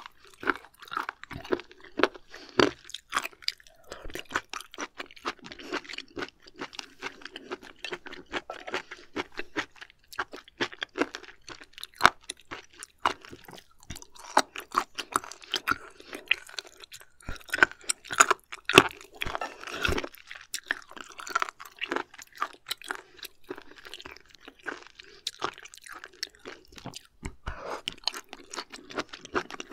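Close-miked chewing of firm raw shellfish sashimi, a long run of crisp crunches and wet mouth sounds.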